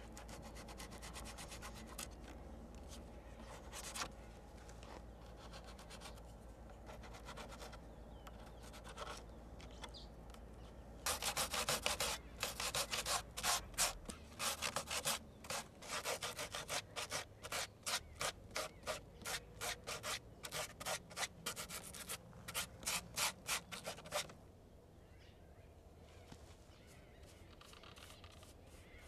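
Rhythmic back-and-forth rubbing strokes, as of hand sanding a surface. They are faint at first, then loud and regular at about two to three strokes a second for some thirteen seconds, and stop suddenly near the end.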